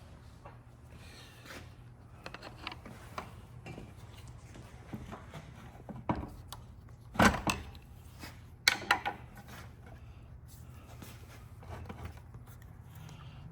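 Hand tools clinking and scraping against metal automatic-transmission parts during teardown, with one loud sharp metallic knock a little past halfway and a short cluster of knocks about two seconds later.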